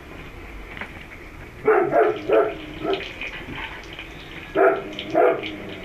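A dog barking in short bursts: four quick barks about two seconds in, then two more near the end.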